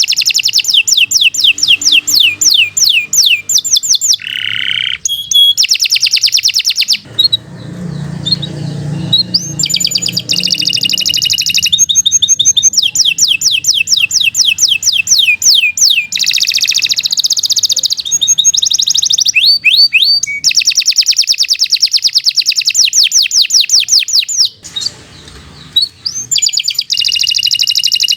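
Domestic canary singing long rapid trills of repeated high notes, phrase after phrase, with a few short pauses. This is the continuous, full-voiced song ("gacor panjang") that keepers play to prompt their own canaries to sing.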